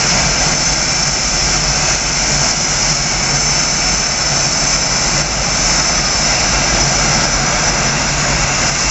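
Boeing F/A-18 Hornet jet engines running steadily, a loud, even jet noise with a constant high whine.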